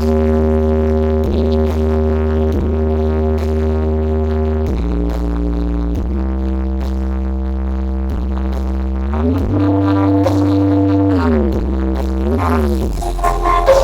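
Electronic dance music played loud through a large carnival sound system, with deep held bass notes over an even beat; the bass slides up about 9 seconds in and back down near the end.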